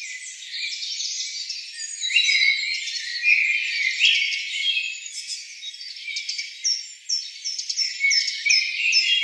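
Small birds chirping and twittering, several voices overlapping in a busy high-pitched chorus, with a quick run of repeated falling chirps near the end.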